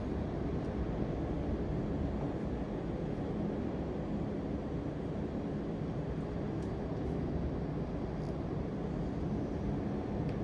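Steady low-pitched rumbling background noise, even throughout, with a few faint ticks.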